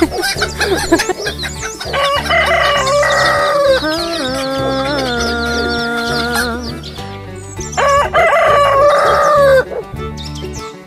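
Rooster crowing, with a long crow through the middle and another shorter one near the end, after a run of clucking at the start. Background music plays underneath.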